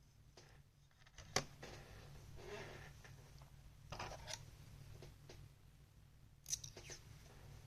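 Small handling sounds from working on the inside of a laptop: a sharp click about a second and a half in, then stretches of scraping and rustling, and a cluster of clicks near the end, over a steady low hum.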